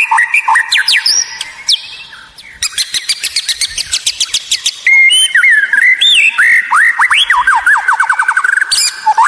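White-rumped shama (murai batu) singing a loud, varied song of whistles that glide up and down. A few seconds in comes a very fast run of clipped, ticking notes, and near the end another rapid trill.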